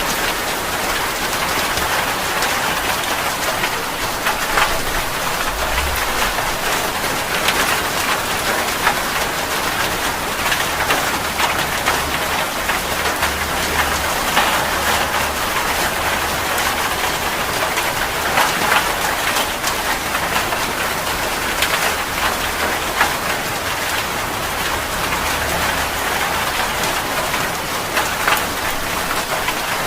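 Steady heavy rain falling on a surface, with many close drops ticking through the hiss and a faint low rumble underneath.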